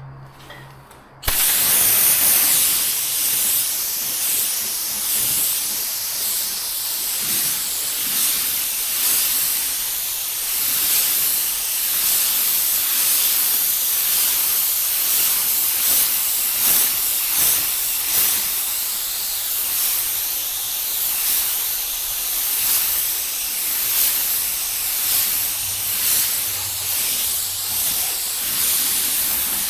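Paint spray gun hissing as it sprays a tinted, reduced white base coat. The hiss starts about a second in and runs steadily, swelling and dipping slightly with the passes.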